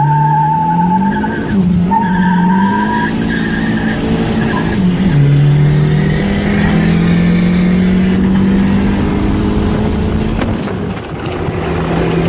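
Turbocharged four-cylinder car engine accelerating hard through the gears. The pitch rises and drops sharply at gear changes about a second and a half, five seconds and eleven seconds in.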